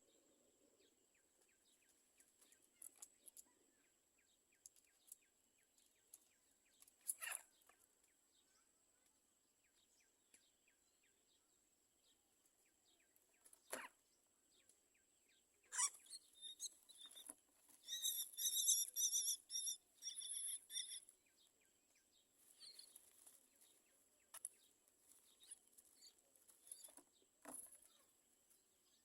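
Mynas at a nest: faint scattered clicks and rustling, then, about halfway through, a run of rapidly repeated high, harsh calls lasting some five seconds. A faint steady high whine is present throughout.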